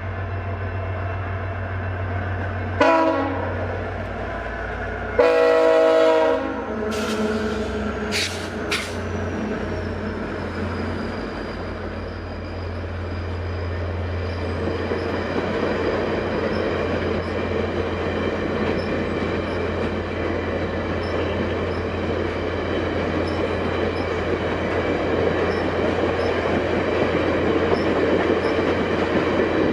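Diesel engines of a pair of EMD F40PH-2 locomotives leading a passenger train, sounding the horn twice, a short blast then a longer one. A few sharp clicks follow, then the rumble of the train and its wheels on the rails grows steadily louder as it comes through slowly on a slow order.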